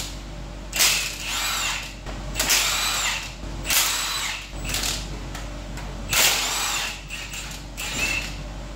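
A power drill running in about five short bursts of roughly a second each, its pitch rising and falling with each burst, while undoing the water pump bolts.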